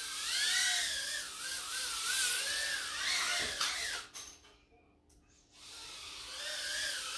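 High-pitched whine of a Mobula 6 tiny whoop's 19000kv brushless motors and props, its pitch rising and falling constantly with the throttle. About four seconds in the whine cuts out almost entirely for over a second, then spins back up.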